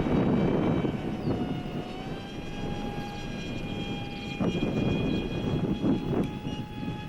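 RC park jet's motor and propeller whining steadily in flight, the pitch rising slightly about a second in and then holding. Gusts of wind rumble on the microphone throughout.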